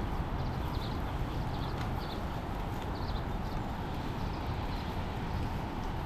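Steady rushing of water outdoors, heavy at the low end, with scattered light taps like drops striking the camera.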